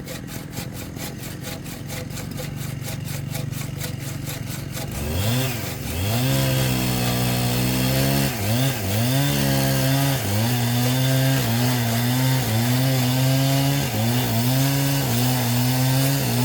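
Small two-stroke chainsaw engine idling with a regular putter, then revved up about five seconds in and held at high revs, the pitch repeatedly sagging and recovering as the chain bites into wood.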